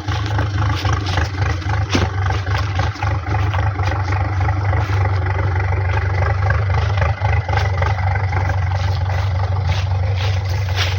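Fiat 640 DTC tractor's four-cylinder diesel engine running steadily under load as the tractor climbs a slope, a deep even drone with short clattering knocks over it.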